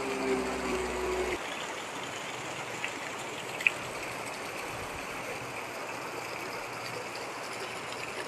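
Steady rush of heavy rain and flowing floodwater. A vehicle engine hums for about the first second and a half, then drops away; one short tick comes about three and a half seconds in.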